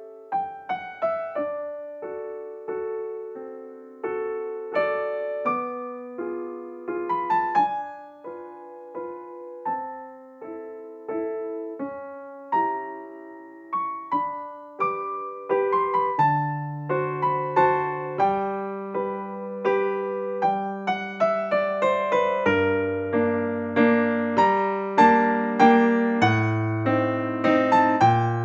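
Background piano music: a gentle melody of struck notes, with lower bass notes coming in about halfway through.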